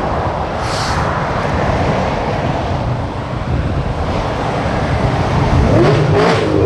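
Road traffic from a truck convoy: a steady rumble of heavy vehicles on the road. Near the end an engine rises in pitch and then falls back.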